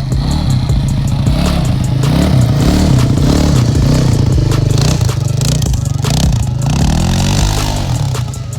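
Four-wheeler (ATV) engine running while being ridden, its revs rising and falling again and again, with some rattling.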